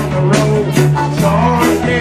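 Live band playing a bluesy rock jam: guitar and a voice over a steady beat, about two to three hits a second.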